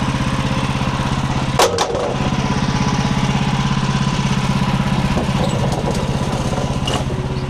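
Gasoline engine of a portable bandsaw sawmill running steadily at speed. There are two sharp knocks about a second and a half in.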